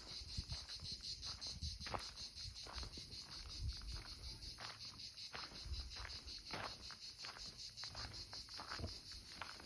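Insects trilling steadily in a high, rapidly pulsing chorus, over irregular soft thuds.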